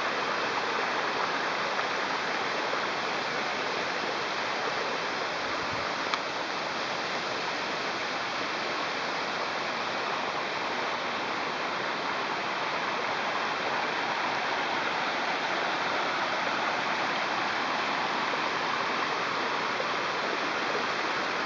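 Waterfall falling onto rocks and pool: a steady, even rush of water, with one small click about six seconds in.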